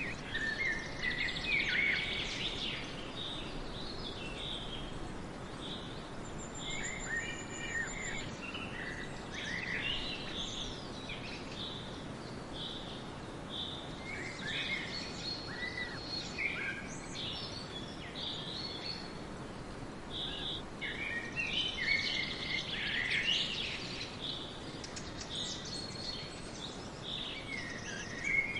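Small birds chirping and twittering over steady background noise, busiest near the start and again about three quarters of the way through, with a brief thin high whistle about a quarter of the way in.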